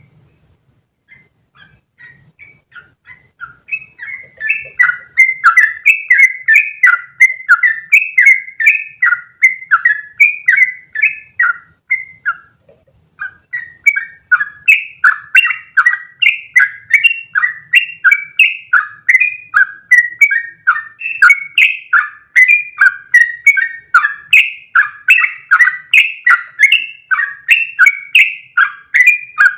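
Yellow-vented bulbul (trucukan) singing a long run of quick chirping notes, about two to three a second. The song fades in over the first few seconds, breaks off briefly about twelve seconds in, then carries on without pause.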